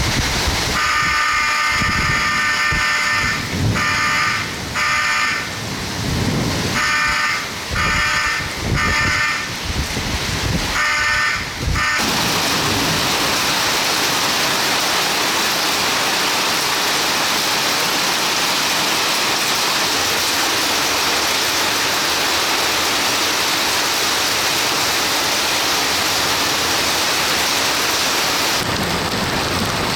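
Torrential rain and gusting wind, with a building fire alarm that the storm has tripped sounding in repeated bursts of electronic tone. About twelve seconds in, the alarm stops and only the steady, loud hiss of heavy rain and running water remains.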